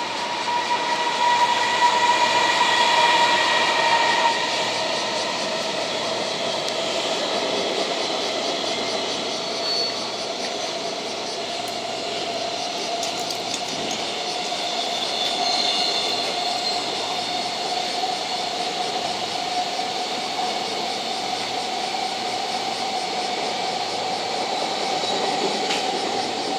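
JR Freight EF210 electric locomotive and a long container freight train running past: a steady rumble of wheels on rail with a held whine. For about the first four seconds a louder tone with overtones sounds, then cuts off suddenly.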